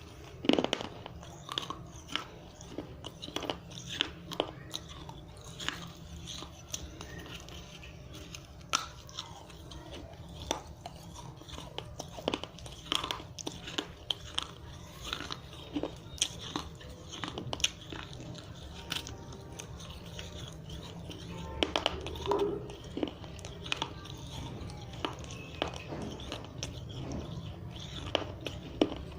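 Dry red clay diya being bitten and chewed: close, irregular crisp crunches and crackles of breaking clay, with the sharpest bites about half a second in and again about 22 seconds in.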